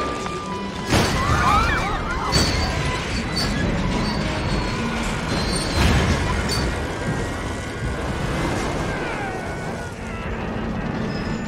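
Film sound effects of a runaway elevated train being dragged to a stop: steel wheels screeching and grinding on the rails, with several heavy metal crashes, under an orchestral score.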